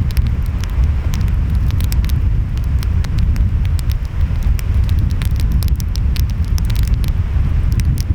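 Wood fire crackling, with frequent sharp pops and snaps, over a steady low rumble of ocean waves and wind.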